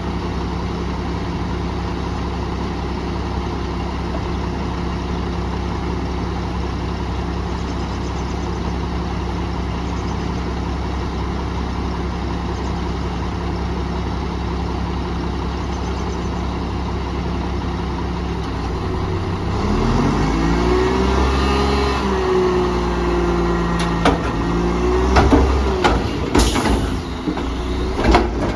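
Garbage truck's diesel engine idling steadily, then revving up about two-thirds of the way through and holding higher revs. Several sharp metal clanks and a brief hiss follow near the end.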